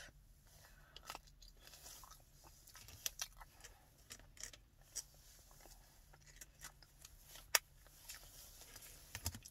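Close-up mouth sounds of someone chewing a soft pretzel bite: faint irregular wet clicks and smacks, with one sharper click about three-quarters of the way through.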